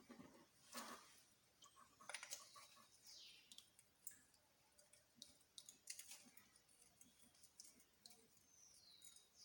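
Faint, scattered clicks and light taps of small metal parts and tools being handled during the engine teardown, with a few quiet gaps between them. Two faint, high, falling chirps are heard, one about three seconds in and one near the end.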